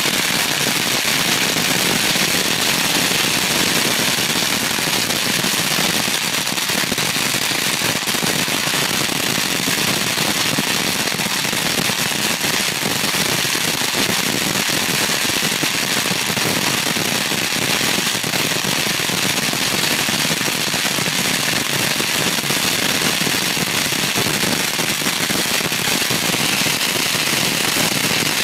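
Long string of firecrackers going off in a dense, unbroken rapid crackle of small bangs, steady for the whole stretch.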